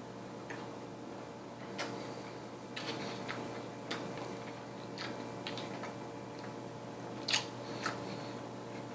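A person eating a burger sandwich fast: irregular wet mouth clicks and smacks from chewing, several close together and the loudest about seven seconds in, over a steady low hum.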